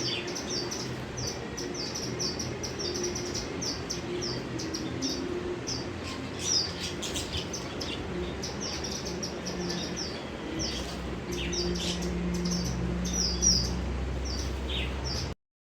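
Pet budgerigars chirping, a fast, continuous run of short high chirps from several birds. A low steady hum joins underneath about ten seconds in, and everything cuts off suddenly near the end.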